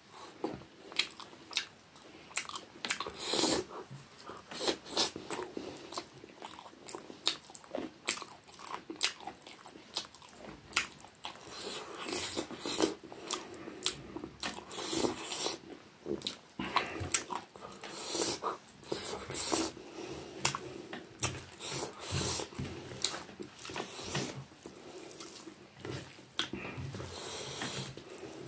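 Close-miked wet chewing and lip-smacking of a person eating rice and curry by hand, with many short, irregular mouth clicks and smacks.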